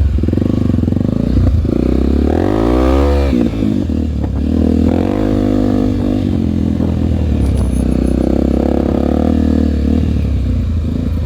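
Honda trail motorcycle's single-cylinder four-stroke engine running. About two seconds in it revs up, its pitch rising, then drops sharply a little after three seconds. It picks up again and runs on at a fairly steady, slightly varying speed.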